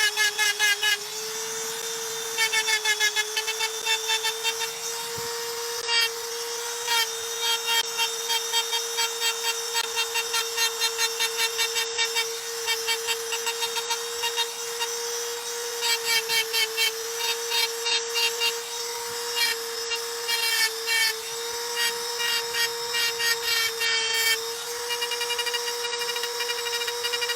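A machine running with a steady hum, over which rapid, evenly repeating high squeaks come in bursts of a few seconds at a time.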